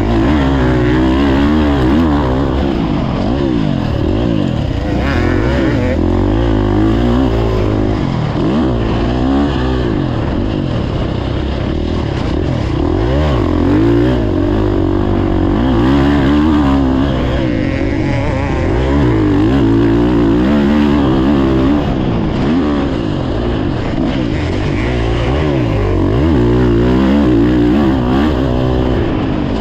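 Motocross dirt bike engine being ridden hard, its pitch rising and falling over and over as the throttle opens and closes and the gears change.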